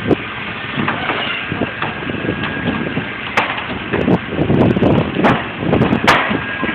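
Wooden shed timbers cracking and splintering under a winch pull: a few sharp cracks over steady background noise.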